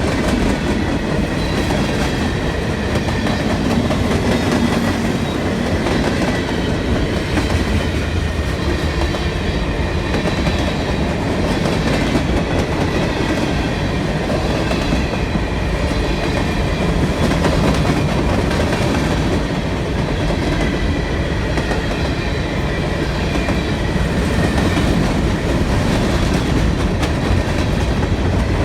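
CSX freight train rolling past, a steady run of freight cars with wheels clattering over the rail joints. A faint, steady high squeal from the wheels sits over it.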